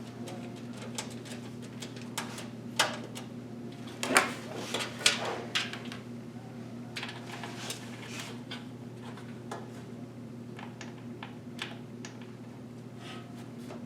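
Scattered clicks and light knocks from hands handling computer parts and a PC case, with a cluster of louder clacks about four to six seconds in, over a steady low hum.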